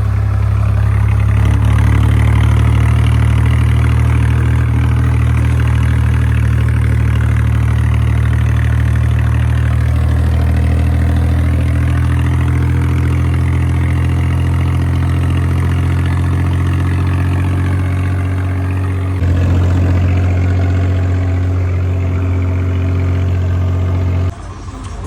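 Tractor diesel engine running steadily at constant revs. The sound changes abruptly about 19 seconds in and drops away sharply just before the end.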